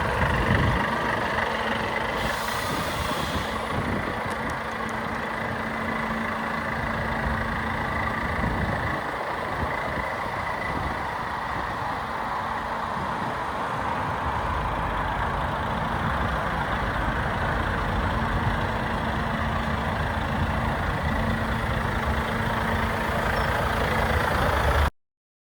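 Volvo FH 500 truck's 13-litre straight-six diesel engine idling steadily, with a brief hiss of air about two seconds in. The sound cuts off suddenly near the end.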